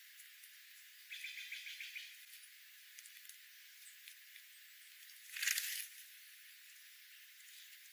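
A small bird's rapid chattering trill lasting about a second, then a louder, harsh half-second burst of noise a little after the middle, over faint hiss.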